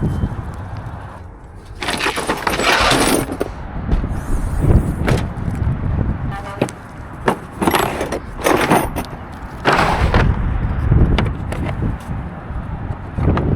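Hand work on a car's wiring harness: a series of rustling, scraping bursts, each about a second long, with scattered sharp clicks in between.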